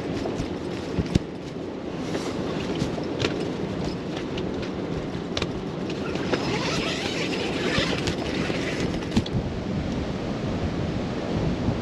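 Strong blizzard wind rushing and buffeting the microphone, with scattered sharp clicks and a hissier gust from about six to nine seconds in.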